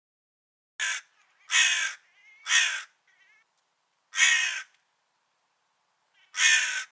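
Crow cawing: five harsh caws, the first short, with a longer pause before the last two.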